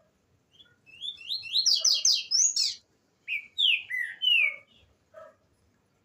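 Trinca-ferro (green-winged saltator) singing: two loud phrases of quick, downward-slurred whistled notes, the first about a second in and running nearly two seconds, the second a shorter run of three notes about three seconds in.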